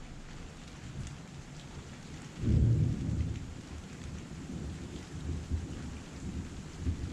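Heavy rain falling steadily, with a sudden low clap of thunder about two and a half seconds in that rumbles and fades over the next second or two.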